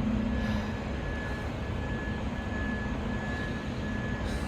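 City street traffic noise: a steady low engine rumble, with a faint high beep repeating at even spacing in the background.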